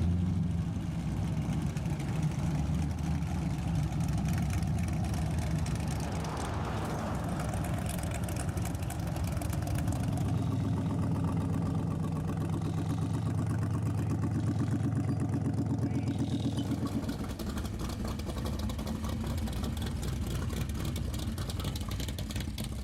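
A rat rod's engine running, with its note shifting a few times, between idling and revving.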